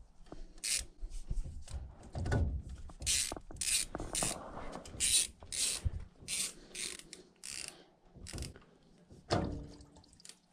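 Hand ratchet worked in short repeated strokes, about a dozen clicking strokes at an uneven pace, undoing the fasteners on a boiler's circulating pump.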